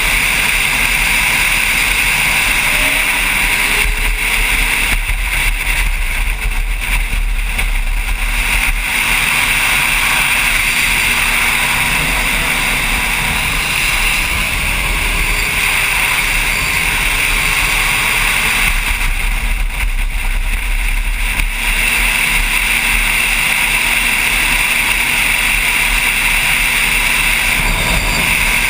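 A motorcycle running at speed, heard from the rider's camera, with steady wind rush on the microphone. The engine note rises and falls gently under the wind.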